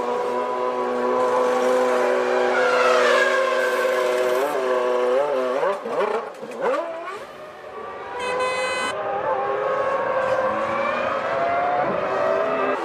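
1997 Formula One car engines at high revs: a steady scream, then dips in pitch as they shift down and sweep past about six seconds in, and rising revs as they accelerate again near the end. A brief high beep comes about eight seconds in.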